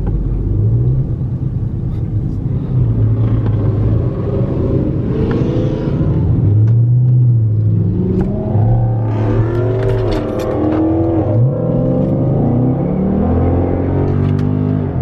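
Dodge Charger Scat Pack's 392 (6.4-litre HEMI) V8 running as the car rolls off. The engine note holds, then rises again and again, revving highest about two-thirds of the way through.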